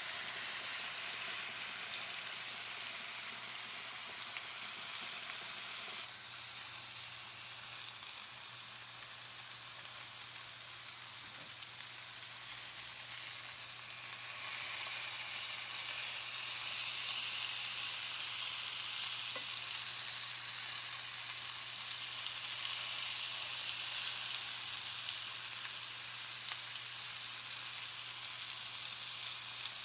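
Seasoned chicken thighs sizzling steadily as they fry in a pan, the sizzle growing louder about halfway through.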